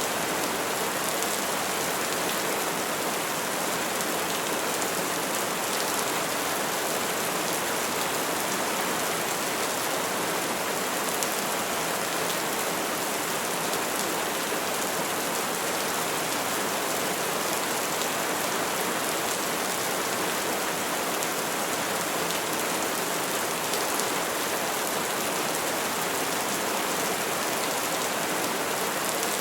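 Steady rainfall pattering on tree leaves, an even hiss of many drops with no thunder.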